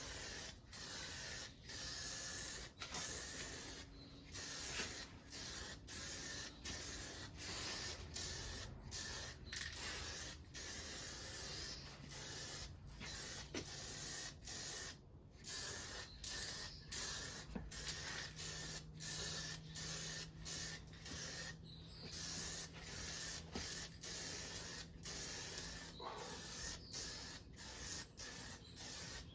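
Paint being sprayed in short repeated bursts, a hiss that stops and restarts about once or twice a second.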